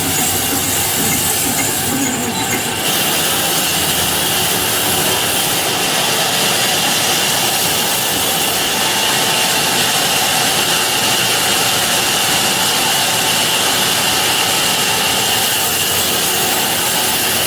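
Sawmill saw running and cutting through a log: a loud, steady noise with a brief dip about two seconds in.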